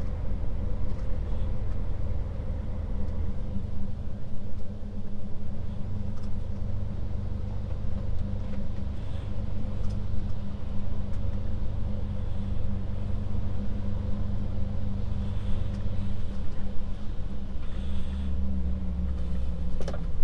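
Scania S500 truck's 13-litre straight-six diesel engine running steadily at low speed, heard from inside the cab as a low hum. The hum deepens and gets stronger in the last few seconds.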